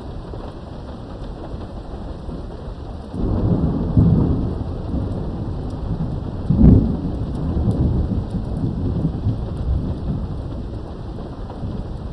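Steady rain with a thunderclap: about three seconds in a low rumble of thunder breaks out, with a sharp crack near the middle, then rolls on and slowly fades under the rain.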